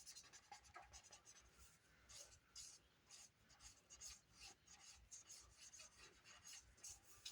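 Faint scratching of an ink pen drawing on cardstock: short, irregular strokes, several a second.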